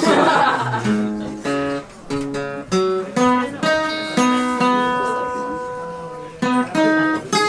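Acoustic guitar playing a song's introduction: a strum, then picked single notes that ring and fade, with a few new notes plucked near the end.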